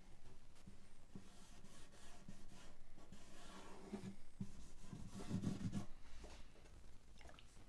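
Scratchy rubbing and wiping on the wooden bridge of a 12-string acoustic guitar as it is given a soaking to treat the dry wood, with a run of soft knocks about five seconds in.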